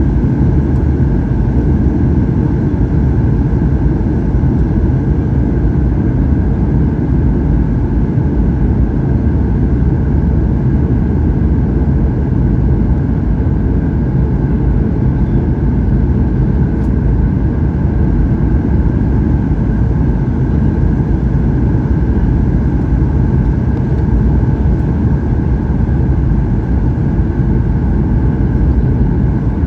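Steady in-flight cabin roar of a Boeing 737-800, heard from a window seat. It is the deep, even rumble of the CFM56-7B turbofan engines and airflow, with a steady higher hum above it.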